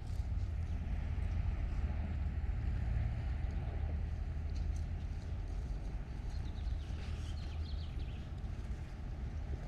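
Outdoor street ambience: a steady low rumble of road traffic, with a few faint bird chirps near the end.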